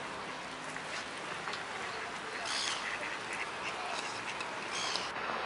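Ducks quacking a few short times over a steady outdoor background rush.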